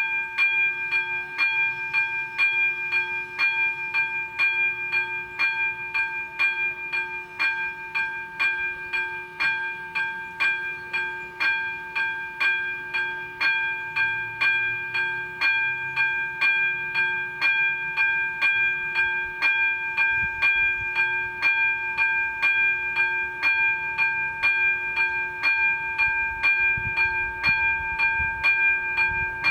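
Level-crossing warning bell ringing steadily, struck about twice a second with a ringing metallic tone, sounding to warn of an approaching train. A low rumble builds underneath in the last several seconds.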